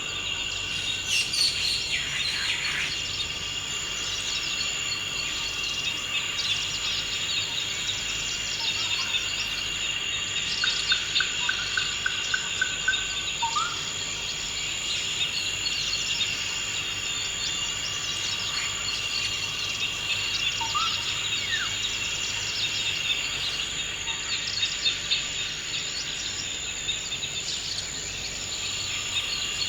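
Forest ambience: a steady, high-pitched chorus of insects drones throughout, with scattered quick bird chirps over it. A short, rapid trill comes a little before the middle, and a few brief rising whistled calls sound through the second half.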